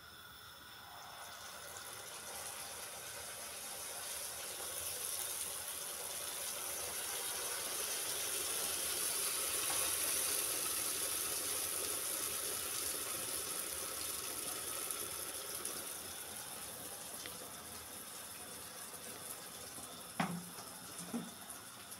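Pişi dough frying in hot oil: a steady sizzle that swells to its loudest about halfway and then eases off, with two light knocks near the end.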